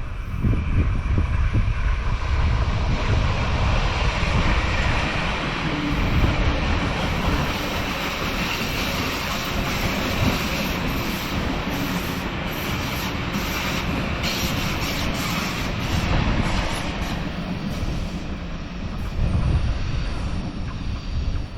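A train passing along the track: steady rolling rumble and rush of wheels on rails, easing slightly in the last few seconds.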